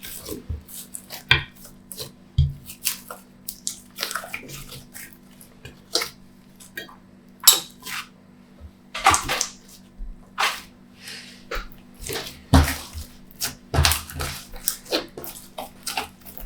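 Glossy slime being squished and folded by hand, giving irregular wet clicks and squelches a few times a second.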